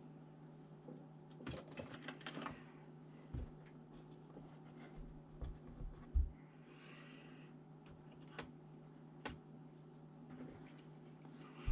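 Scattered small clicks and taps of laptop parts and tools being handled, with a quick run of clicks about two seconds in, a duller knock about six seconds in and a brief scrape just after it, over a steady low hum.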